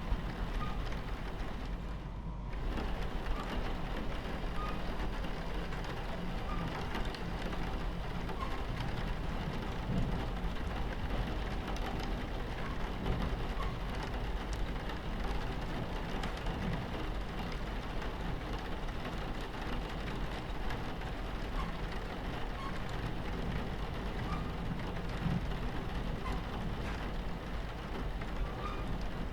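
Rain falling on a train window over the steady low rumble of a train running on its tracks. The high hiss drops out briefly about two seconds in.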